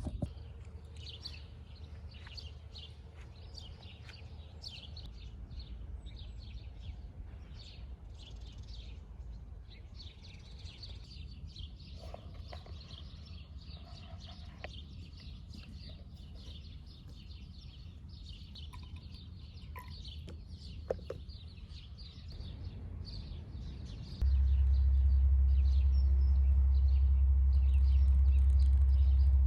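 Small birds chirping and calling repeatedly over a steady low rumble. Near the end the rumble suddenly becomes much louder.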